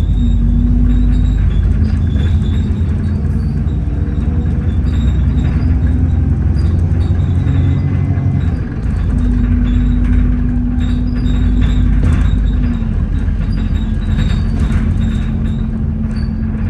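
Alexander Dennis Enviro400 double-decker bus under way, heard on board: a heavy low drone with a steady hoover-like whine, rattles and loud axle noise. The sound dips briefly about nine seconds in, then the whine carries on at a steady pitch.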